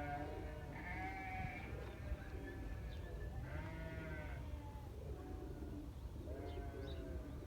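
A flock of sheep bleating, several animals calling in turn and overlapping, a new bleat every second or two.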